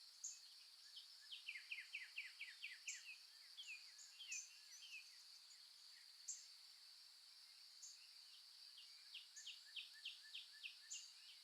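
Faint dawn birdsong: several runs of quick, down-slurred chirps, heard twice with a pause in the middle, over a steady high-pitched drone such as insects.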